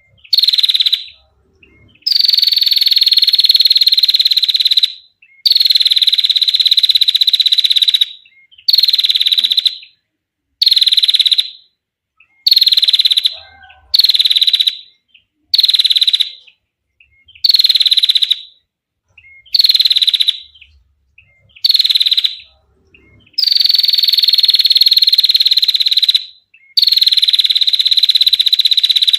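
Female prinia (prenjak) giving long, buzzy trills, about fourteen in a row, each lasting one to three seconds with short pauses between. The longest trills come near the end, and some dip slightly in pitch as they go.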